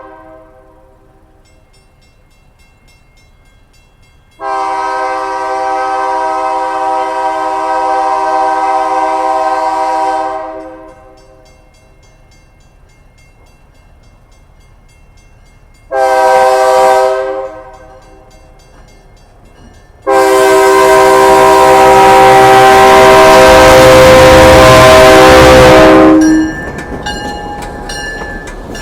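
Locomotive air horn sounding a chord of several notes in three blasts: a long one, a short one, then a long, loud one. After the last blast the departing train's running and wheel noise carries on more quietly.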